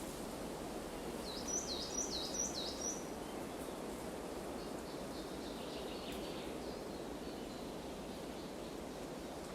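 A small bird gives a quick series of four high, down-slurred notes about a second and a half in, then fainter high notes a few seconds later, over a steady rushing background of wind or running water in a forest.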